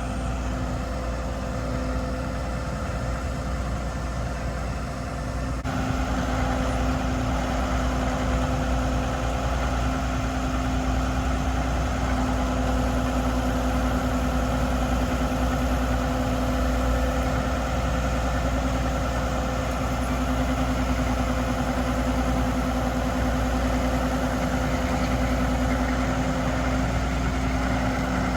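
Diesel engine of an International HV507 utility truck running steadily with a constant whine. It grows louder and brighter about six seconds in, then holds steady.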